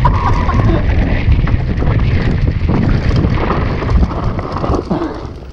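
Wind buffeting the microphone during a downhill mountain-bike run, with a steady rumble and irregular knocks from the bike on rough ground.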